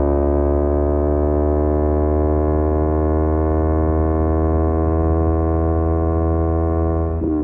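Kawasaki Z250 parallel-twin engine through a SeaPro aftermarket muffler, running steadily while the revs ease off slowly, with a brief break in the note near the end.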